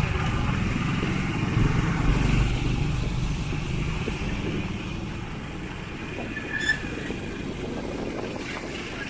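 Engine and road noise of a moving vehicle, a steady low rumble that slowly fades. A short high beep sounds about two-thirds of the way in.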